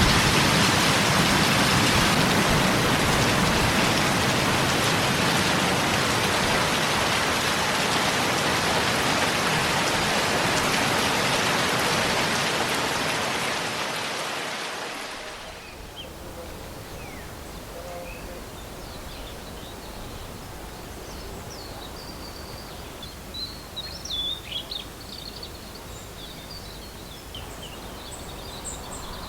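Steady heavy rain that fades out about halfway through. Then a quieter outdoor background with a few bird chirps.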